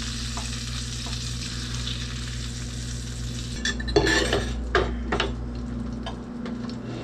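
Breaded coot gizzards sizzling in hot frying oil. A little past halfway the sizzle thins as the gizzards are lifted out, and a wooden spatula knocks several times against the pan and bowl.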